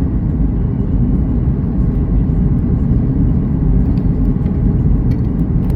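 Cabin noise inside a Boeing 737 MAX 8 on approach: a steady, loud low rumble of engines and airflow.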